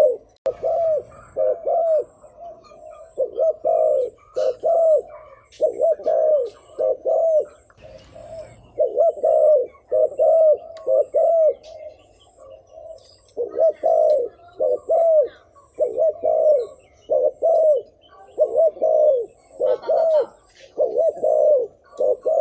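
Spotted dove giving a rapid series of short, low coos, repeated about one and a half times a second with a couple of brief pauses: the fast courtship cooing ('thúc gù') used as a decoy call to draw in wild doves.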